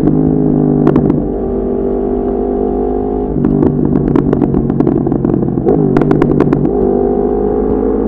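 Yamaha MT-10's crossplane inline-four through an Akrapovic exhaust, heard from on the bike while riding. It runs at fairly steady revs, and its note steps up and down a few times as the throttle changes. Bursts of sharp crackles come about a second in and again in the middle.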